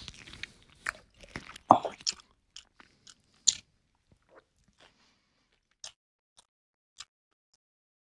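A person chewing a mouthful of chicken biryani eaten by hand, with wet mouth clicks and smacks. A dense run of crackly chewing sounds for about three and a half seconds, then only a few isolated clicks.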